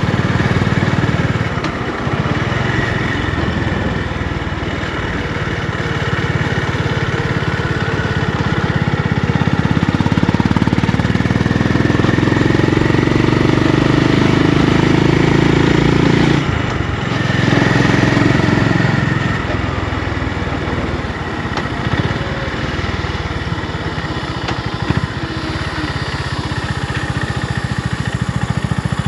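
Honda GB350's single-cylinder four-stroke engine running. It swells louder for several seconds past the middle, drops off abruptly, swells briefly again, then settles back to a lower steady beat.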